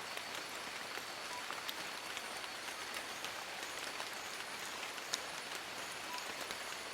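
Steady rain falling on forest leaves: an even hiss dotted with sharp drop ticks.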